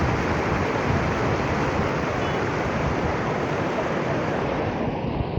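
Fast-flowing floodwater rushing, a steady even noise.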